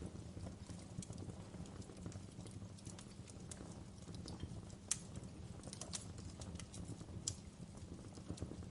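Log fire crackling in a fireplace: a low, steady rumble of burning wood with scattered sharp pops and snaps, two louder pops about five and seven seconds in.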